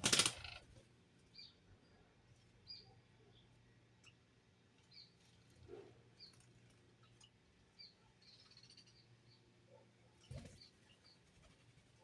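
Small birds chirping: short, high chirps about once a second. A brief loud noise comes right at the start, and a low thump about ten seconds in.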